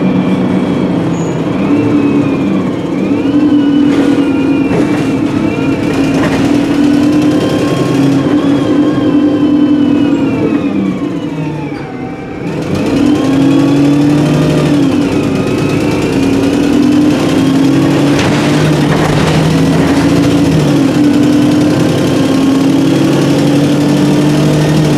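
Alexander Dennis Enviro300 bus on the ADL E30D chassis, heard from on board: a diesel engine running under load with a blown exhaust, and the Voith 4-speed automatic gearbox whining. The whine falls away as the bus slows about twelve seconds in, then rises again as it pulls away, with the engine note stepping through gear changes.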